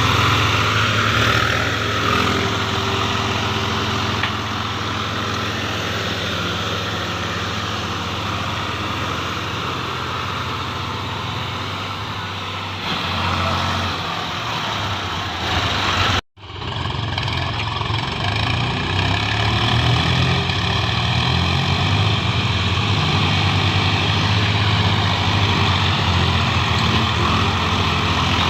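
Tractor diesel engine running steadily under load, likely a Swaraj 735 FE three-cylinder. The sound cuts out for a split second just past the middle, then the engine runs on with its pitch rising and falling a little.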